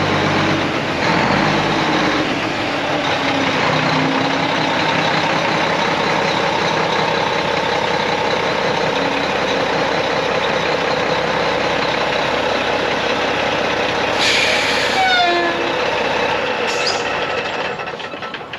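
Heavy diesel truck running, mostly a loud, steady rush, with a short falling whistle about fourteen seconds in.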